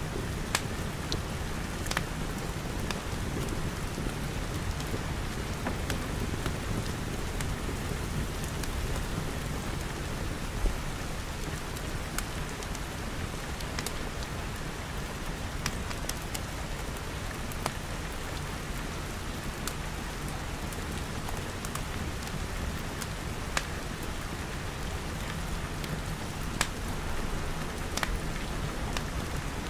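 Steady rain pattering on glass. Scattered sharp pops of a crackling wood fire come through it every second or two.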